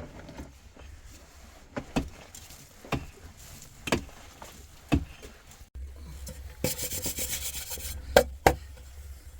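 Wood being worked with a hand tool: sharp strikes about once a second, then a rasping stretch and two sharp knocks near the end.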